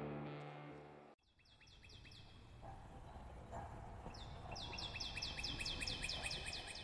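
Music fading out over the first second, then a songbird trilling a rapid series of short, falling chirps, about six a second. One brief run comes just after a second in and a louder, longer run from about four and a half seconds.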